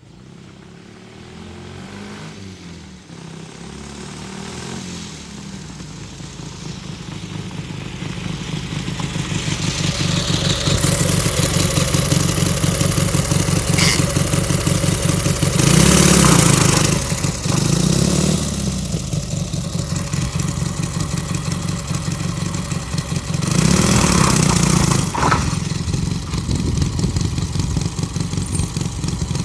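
Homemade trike's Dnepr flat-twin motorcycle engine running, growing steadily louder over the first ten seconds or so, then holding loud. It revs up briefly twice, about halfway through and again about four-fifths through.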